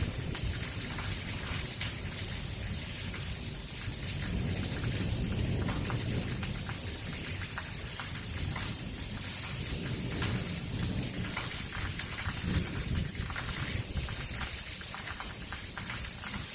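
Heavy rain falling steadily, with many close drops striking surfaces, and thunder rumbling low beneath it, swelling a few seconds in.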